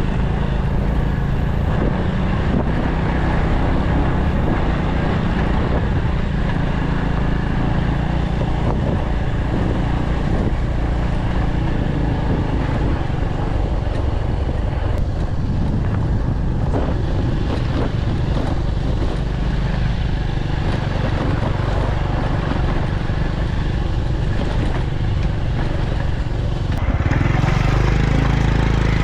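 A small engine running steadily with a low, even hum, growing a little louder near the end.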